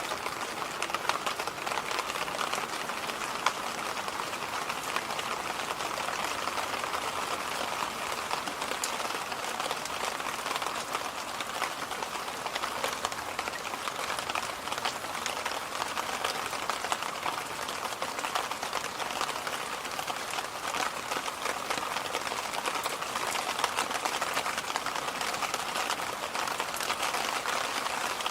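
Electric fan running steadily: an even rush of moving air, strongest in the middle of the range, with a faint fine crackle running through it.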